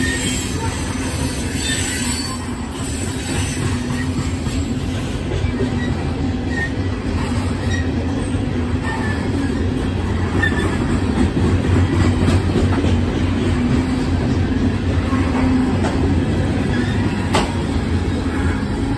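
CSX coal train of open-top coal tubs rolling past: a steady, loud rumble of wheels on rail, with short faint wheel squeals and a few sharp clicks from the rail joints.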